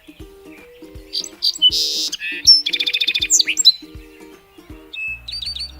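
Sparrow chirping over looping background music: a run of sharp chirps and a fast trill in the middle, the loudest part.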